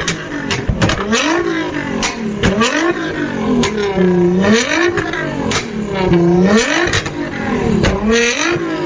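Sports car engine revved in repeated throttle blips, its pitch climbing and dropping about once a second, with sharp cracks from the exhaust between the revs.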